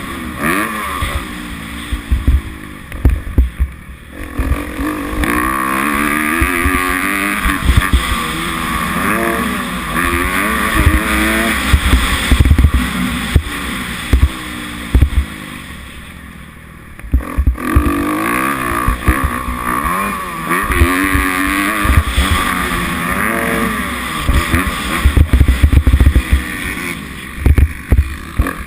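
Kawasaki 250F four-stroke single-cylinder motocross engine revving up and down as the bike is ridden hard around the track, with repeated low thumps. The engine drops off briefly past the middle, then picks up again.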